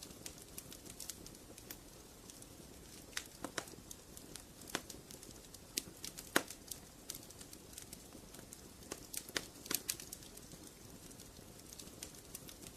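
Wood fire crackling in a fireplace: irregular sharp pops and snaps over a low, steady rush of flame, with the loudest pops about six seconds in and a cluster around nine to ten seconds.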